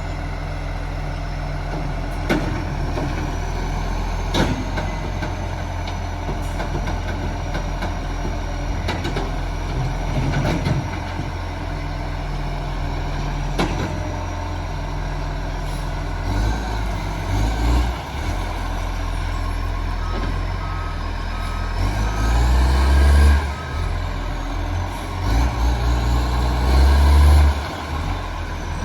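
Garbage truck engine running steadily with a few sharp knocks and clanks, then surging in loud revs over the second half. A reversing beeper sounds repeatedly through the last several seconds, over a high whine that rises and falls.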